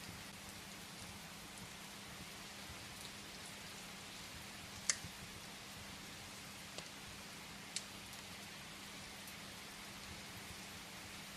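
Steady rain hiss with a few sharp crackles from burning firewood, the loudest about five seconds in and two smaller ones a couple of seconds later.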